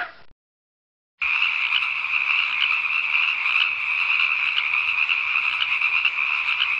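Frogs calling: a continuous, rapid, high-pitched trill that starts about a second in and carries on steadily.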